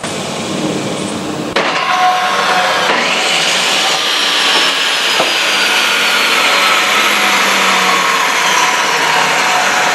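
Ridgid portable table saw's universal (brushed) motor switched on and running with the blade spinning, getting louder about a second and a half in and then holding steady, its whine sliding slowly lower. It runs again after a burnt-off field wire was reconnected.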